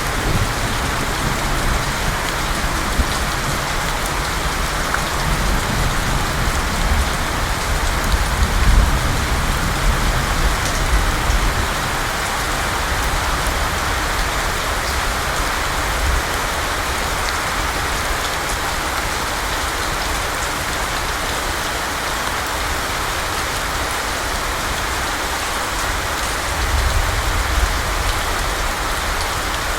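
Wind blowing with a steady hiss, and gusts buffeting the microphone with a low rumble, once in the first half and again near the end.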